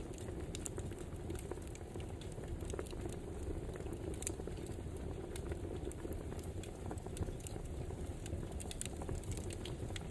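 Wood fire crackling: a steady low rush of burning with frequent, irregular sharp pops and snaps from the firewood.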